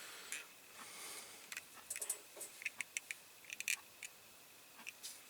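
Faint, scattered small clicks and light taps of a model car's interior part being pressed and jiggled into a diecast body that it fits poorly.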